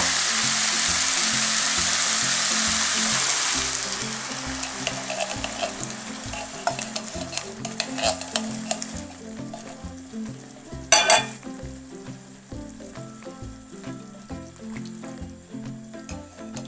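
Chicken pieces sizzling in hot oil in a pan, loud and steady, then dying down about four seconds in as coconut milk is poured over them. Scattered small clicks follow, with one sharp clank about eleven seconds in.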